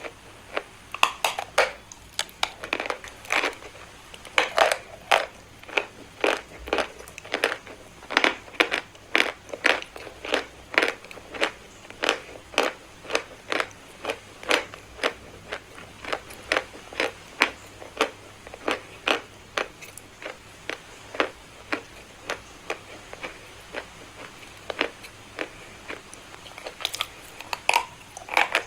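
Dry chalk crunching: a quick, uneven series of sharp crunches, about two or three a second, as the face of a piece of chalk is broken into.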